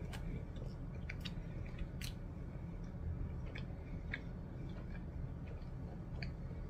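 A person chewing a mouthful of cheeseburger with the mouth closed, giving scattered small wet clicks, over a low steady hum.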